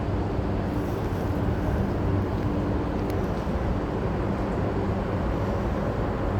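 Roosevelt Island Tramway aerial cable car in motion: a steady low mechanical hum over an even rumble.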